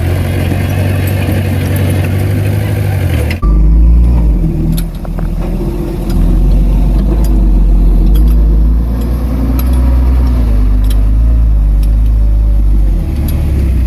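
Heavy diesel earthmoving machinery running. About three seconds in, the sound switches abruptly from an engine note with a lot of hiss to a deeper, steadier engine note.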